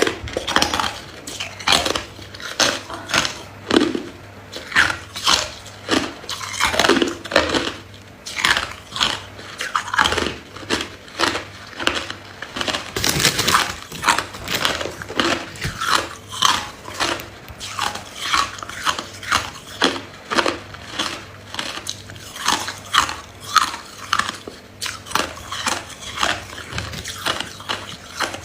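A person biting and chewing ice, a steady run of sharp crunches at roughly two a second, with one louder crack about halfway through.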